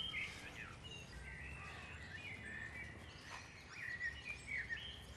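Faint birdsong: scattered short chirps and twitters over a quiet outdoor background hiss.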